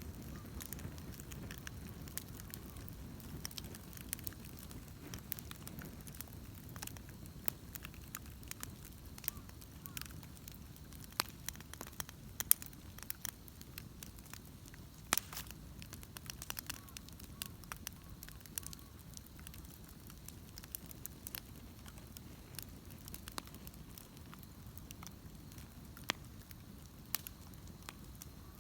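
Wood bonfire burning, a low steady rush of flame with irregular sharp pops and crackles, a few louder snaps among them.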